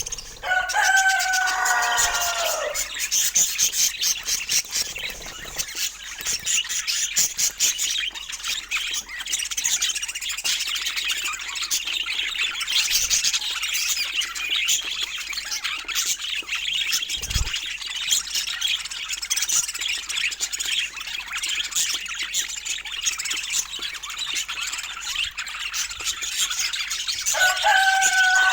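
A flock of budgerigars chattering and warbling continuously in rapid, high chirps. A lower, drawn-out call slides slightly down in pitch about a second in and again at the end.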